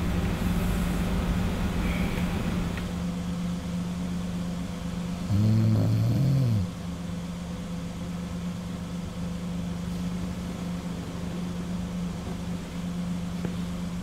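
Car engine idling steadily, heard from inside the cabin. About five seconds in, a low, drawn-out human groan lasting about a second and a half, rising slightly and then falling away.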